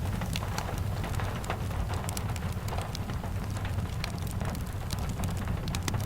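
Steady rain with a crackling fireplace: a constant low rumble of rainfall with scattered sharp pops and ticks.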